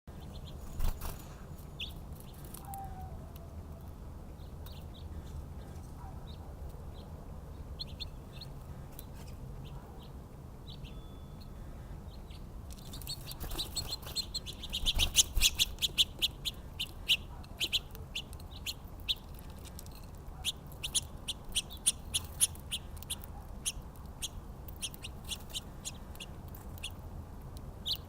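Small songbirds chirping: a few scattered short chirps, then from about halfway a dense run of quick, sharp chirps, over a steady low rumble.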